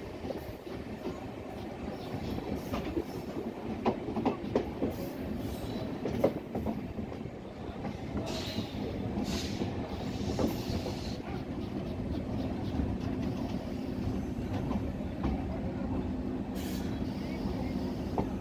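Passenger train coaches rolling along the track, heard from an open coach doorway: a steady rumble with irregular clicks and knocks of the wheels over rail joints and points, and a few short high-pitched squeals. A steady low hum joins the rumble about two-thirds of the way through.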